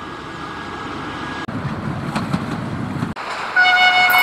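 Trains running past in quick succession, a low rumble of locomotive and wheels cut short twice. About three and a half seconds in, a train horn starts a steady, loud note.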